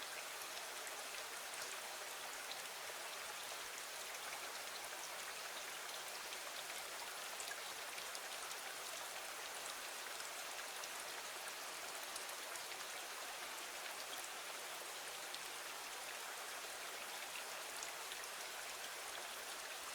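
Steady rain, an even hiss dotted with many small, scattered drop ticks.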